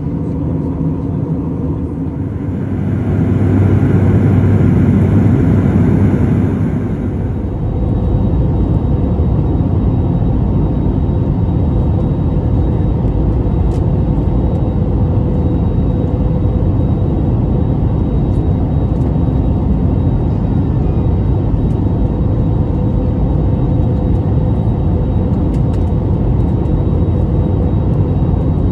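Steady low rumble of an aircraft in flight, engine and airflow noise with a faint steady hum; it swells for a few seconds near the start, then runs evenly.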